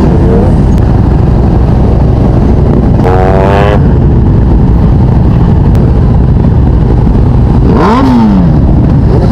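Motorcycle engines running very loud and steady, with a rev that rises and falls about three seconds in and another near the end.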